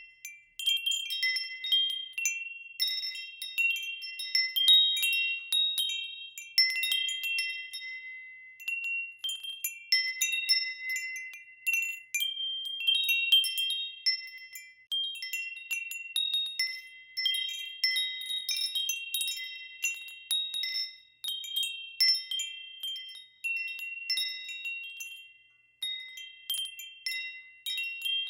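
Wind chimes ringing in the wind: irregular strikes of a few high, clear tones that overlap and ring on.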